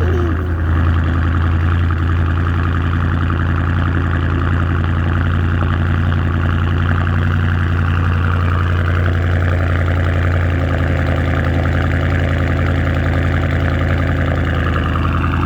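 Car engine with a muffler-deleted exhaust, resonators still fitted, idling steadily with a deep growl just after a cold start.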